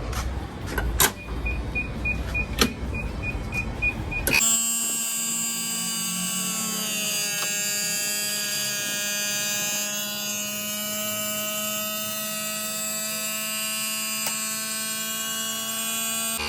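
A steady electric motor whine that starts suddenly about four seconds in and dips slightly in pitch a few seconds later, after a low rumble with a rapid electronic beeping.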